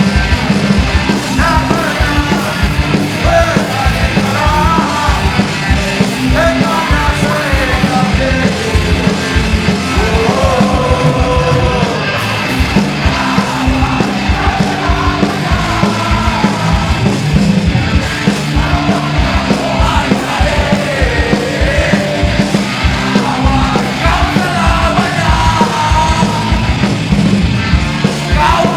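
Live punk rock band playing loud and fast: distorted guitars, bass and rapid drums, with shouted vocals over them.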